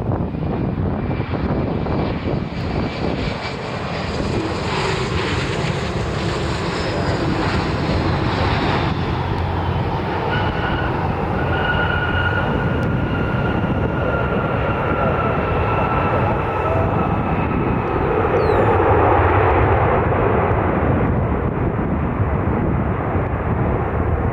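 Jet aircraft passing overhead with a rushing rumble that builds to a peak near the end. About halfway through, a steady engine whine comes in and slowly falls in pitch as the aircraft goes by.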